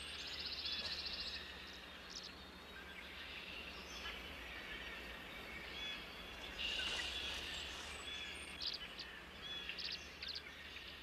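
Faint outdoor ambience with bird chirps and calls: a buzzy chirping burst at the start, another around seven seconds in, and shorter chirps near the end, over a low steady hum.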